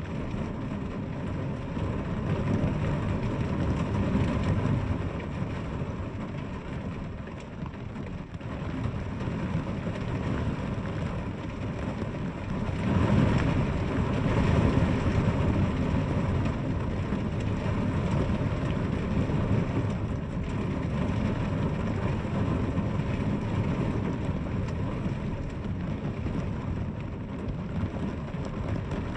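Steady rain falling, growing heavier for a few seconds near the middle.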